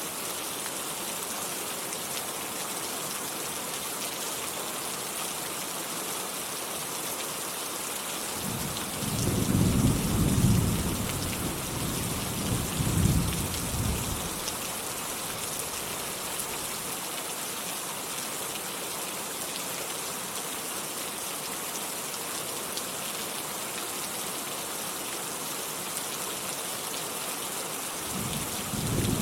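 Steady rain falling, a continuous hiss, with a roll of thunder about nine seconds in that rumbles for around five seconds, and another rumble building near the end.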